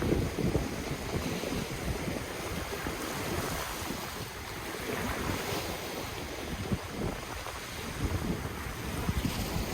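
Ocean surf washing continuously, with wind buffeting the microphone in a gusty low rumble.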